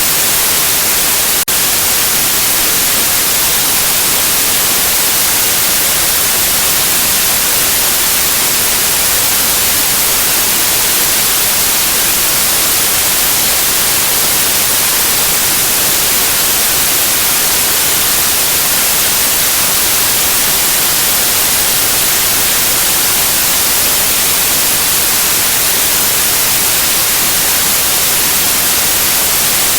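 Steady white noise: a loud, constant, even hiss, brightest in the high frequencies. There is one faint tick with a slight dip about a second and a half in.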